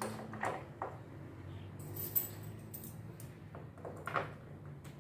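A few short knocks and scrapes of washing-machine parts and tools being handled while the counterweights are fitted, the sharpest about two seconds in, over a steady low hum.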